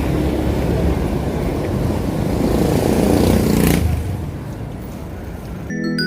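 Road noise and wind rushing on the microphone while riding on a road, with a passing vehicle that grows louder and then drops off suddenly about four seconds in. Bell-like mallet music with a glockenspiel sound starts near the end.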